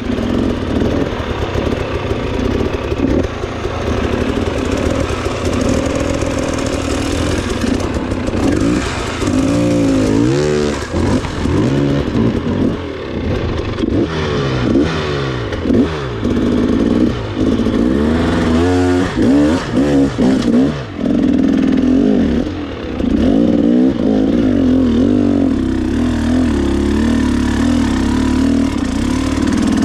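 Trail motorcycle engine running under load, revving up and down again and again as the throttle is worked, then settling into a steadier drone for the last few seconds.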